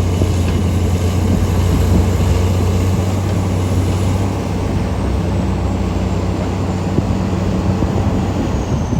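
Heavy diesel mining machinery running, a steady low engine drone with a rough rumble over it. A faint high whine slowly falls in pitch through the second half.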